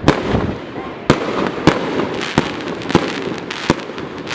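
Fireworks going off: a string of sharp bangs, roughly one every half second to a second, over a continuous crackling hiss.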